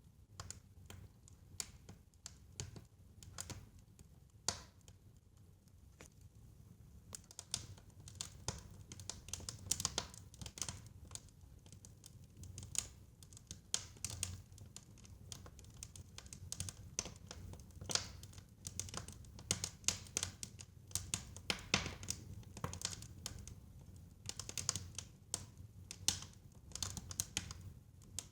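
Wood fire crackling in a fireplace: irregular snaps and pops, busier from about eight seconds in, over a low rumble of flame.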